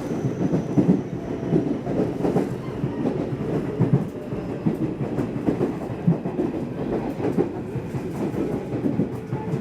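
Nishitetsu electric commuter train running along the line, heard from inside the carriage: a steady low rumble broken by irregular clacks of the wheels over rail joints.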